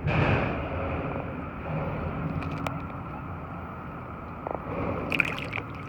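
Steady rumbling noise of wind and water around a kayak, with a sudden loud rush right at the start that fades within half a second, and a few faint clicks later on.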